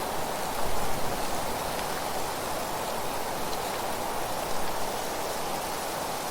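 Steady rushing wind with rustling dry leaves, swelling slightly about a second in and again about halfway through.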